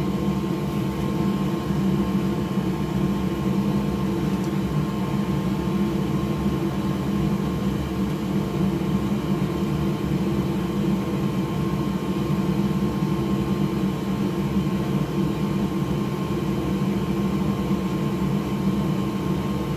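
Steady whirring drone of an electric fan motor with a low hum and a few constant tones, unchanging throughout.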